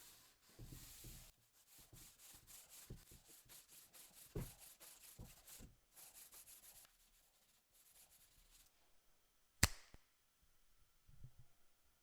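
Quick strokes of hand rubbing on a wooden surface, a run of short hissing passes that stops, followed by one sharp click near the end.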